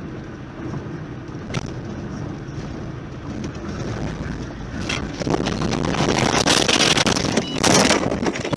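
Road and wind noise of a car being driven, picked up by a dashcam inside it. The noise swells from about halfway through and is loudest near the end, with a few sharp clicks.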